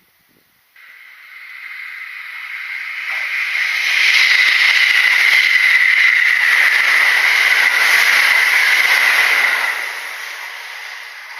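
Kintetsu electric train passing at speed, its wheels running on the rails in a steady hissing rush that starts abruptly, builds over a few seconds, stays loud, then fades near the end.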